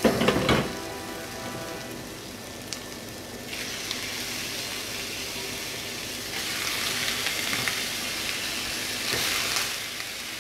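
Chopped onion and garlic sizzling in hot oil in a stainless steel pan, opening with a short clatter. The sizzle swells as raw chicken pieces go into the pan, loudest in two surges in the second half.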